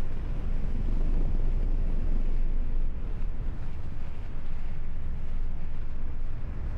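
Strong wind rushing over the camera microphone of a paraglider in flight: a steady, dense low rumble of wind buffeting.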